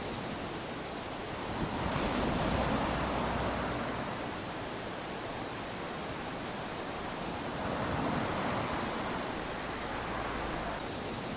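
Small waves lapping onto a sandy beach: a steady wash of surf that swells as a wave breaks, about two seconds in and again about eight seconds in.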